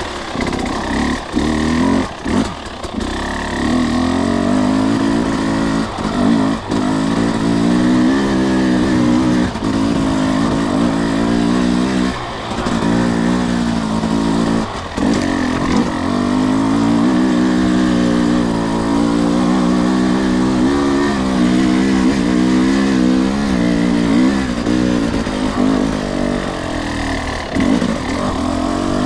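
Two-stroke enduro dirt bike engine under way on a trail, its pitch rising and falling with the throttle. Several brief dips come where the throttle is closed.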